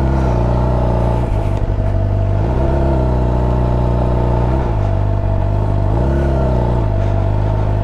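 Suzuki GSX-R750's inline-four engine running on the move, its pitch dipping and climbing back several times as the throttle and gears change.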